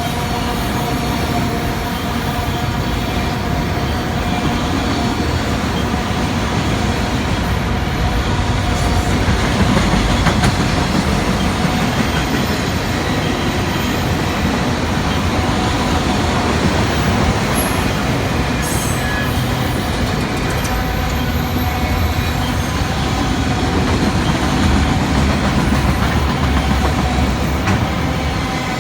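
A freight train's cars rolling steadily past on the track, with a continuous rumble and a steady wheel squeal.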